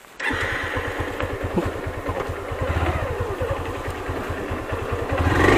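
Motorcycle engine running with an even exhaust beat, coming in abruptly just after the start and getting louder near the end.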